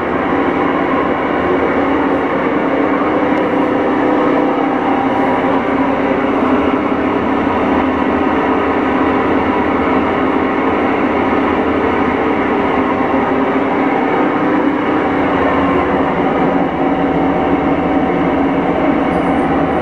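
Whirlpool Cabrio top-load washer running with the steady, extremely loud noise of bad tub bearings.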